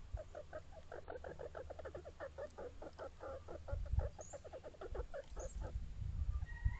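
Chicken clucking in a fast run of short, pitched notes, about nine a second, fading out about five seconds in. Low rumbles of wind on the microphone come and go beneath it.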